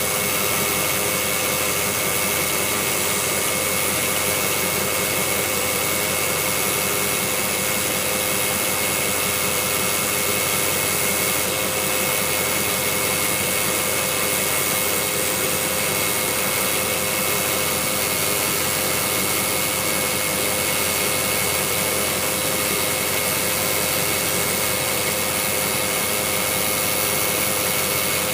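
Jeep Grand Cherokee WJ idling after a cold start, with a steady rattle that seems to come from the bell housing of its 545RFE automatic transmission; the cause is unknown to the owner.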